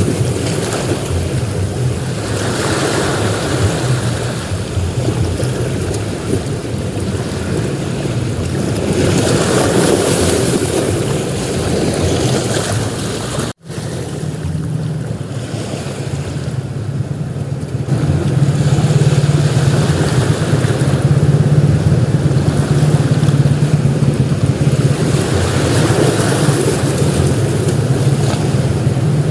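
Ocean surf breaking and washing up a beach, swelling and ebbing every few seconds, with a low rumble of wind on the microphone. The sound drops out for an instant about halfway through.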